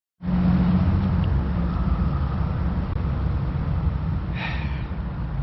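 Steady low rumble of motor traffic, with one brief higher sound about four and a half seconds in.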